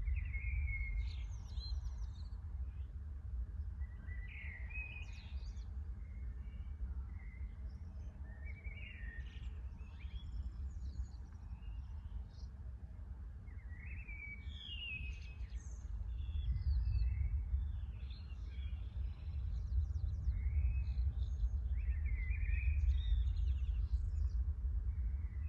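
Several birds chirping and trilling in short, scattered phrases over a steady low rumble that grows louder about two-thirds of the way through.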